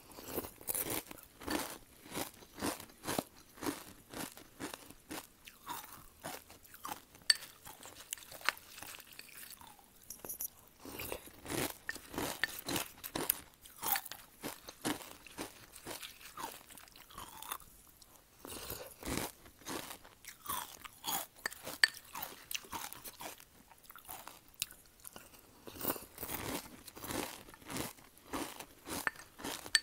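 Close-miked chewing of crunchy cereal clusters in milk: dense, crackly crunches in rhythmic runs of chews, with a couple of brief lulls between mouthfuls.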